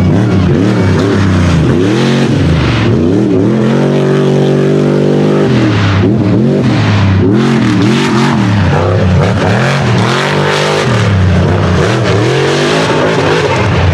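Unlimited-class mega truck engine revving hard in repeated bursts as the throttle is worked on and off over the course. About four seconds in it holds steady at high revs for nearly two seconds.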